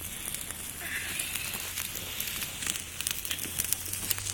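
Small wood campfire crackling, with many scattered sharp pops and snaps over a steady hiss.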